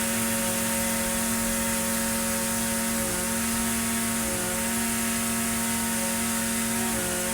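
Echo SRM-2620 string trimmer's small two-stroke engine running steadily, its pitch dipping slightly about three seconds in, again around four and a half seconds, and near the end.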